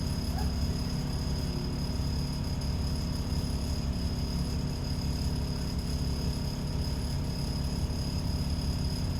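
ADL Enviro 400 double-decker bus's diesel engine running steadily, heard from inside the cabin as a constant low hum with a thin steady high whine above it.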